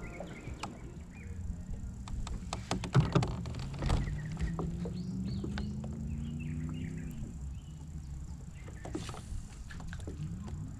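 Clicks and knocks of gear against a fishing kayak, loudest about three to four seconds in, over a low hum that slowly rises in pitch for a few seconds. Brief bird chirps come in the middle.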